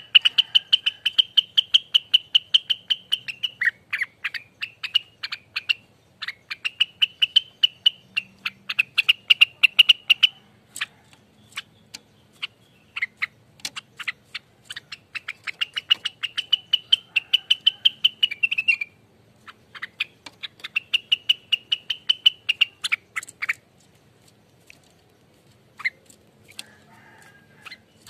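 Cucak rengganis (lesser green leafbird) singing its busy chattering 'ropelan' song. Rapid ticking notes, about ten a second, run over a high, ringing whistled trill, in phrases of a few seconds. Between phrases there are short pauses with scattered single clicks.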